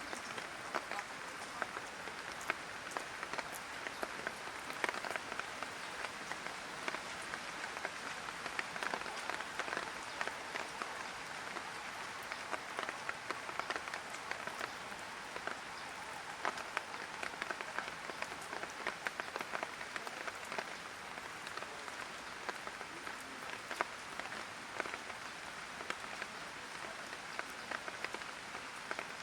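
Light rain falling steadily, with many individual drops pattering and ticking on hard surfaces.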